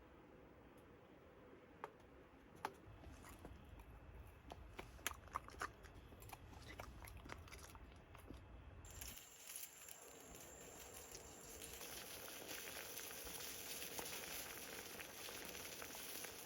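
Scattered small clicks and taps over a low rumble. About nine seconds in, these give way to the steady, faint rush of a flowing mountain stream.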